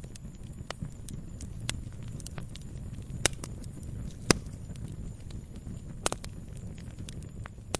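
Campfire crackling: a steady low rumble of burning wood with scattered sharp pops and snaps, the loudest a little after three and four seconds in.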